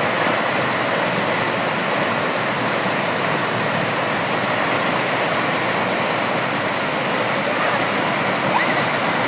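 Tortum Waterfall's water falling: a steady, even rush of water.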